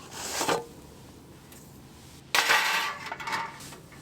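Metal oven tray and utensils scraping and clattering at a wood stove's oven: a short scrape at the start, then a longer, louder rasping scrape a little over two seconds in.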